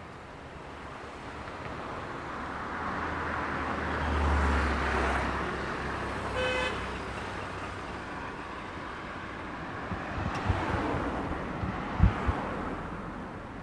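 A motor vehicle passes close by on the road, its engine and tyre noise swelling and fading, with a short horn toot about six seconds in. Another vehicle passes later, and a few sharp low thumps come near the end.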